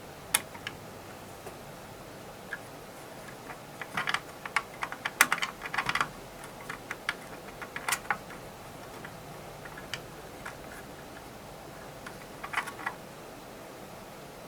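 Irregular small clicks and taps of hand tools working on the amplifier's wiring, bunched in a busy run about four to six seconds in, again near eight seconds and briefly near the end.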